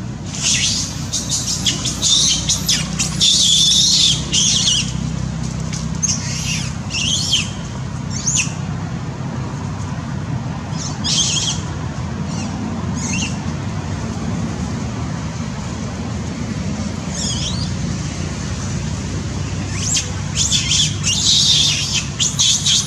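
Small birds chirping in scattered bursts of high-pitched calls, some falling in pitch, thickest at the start and near the end, over a steady low hum.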